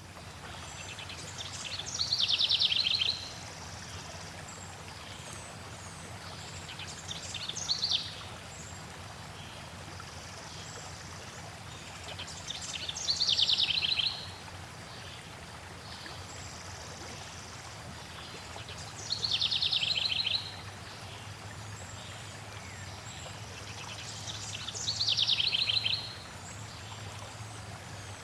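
A songbird singing the same short phrase five times, about every five to six seconds: a high, falling run that ends in a fast trill. Under it, the steady rush of flowing water.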